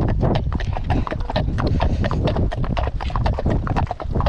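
Ridden horses' hooves clip-clopping: a quick, irregular run of sharp strikes, several a second, from horses walking on hard ground.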